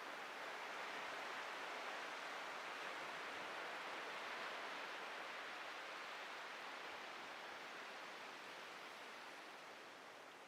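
Atlantic ocean surf washing onto the beach: a steady rushing wash that swells a little early on and fades near the end.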